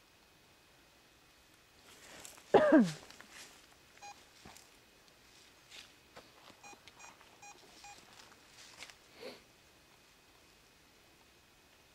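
Handheld EMF meter giving short electronic beeps, a handful at irregular intervals. About two and a half seconds in, a loud short call glides sharply downward in pitch.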